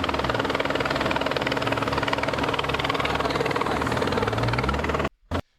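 Police helicopter's rotor noise, a steady fast chopping that cuts off suddenly near the end.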